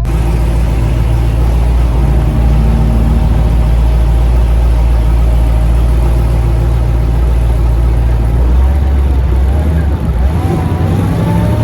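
Supercharged 5.7 Hemi V8 in a Dodge Charger R/T idling loudly with a deep, steady drone through an aftermarket Kooks exhaust. Its pitch rises slightly about nine seconds in.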